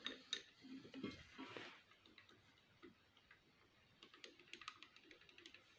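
Near silence with a few faint clicks and ticks of a worn piston pin being turned and handled by hand in its bushing.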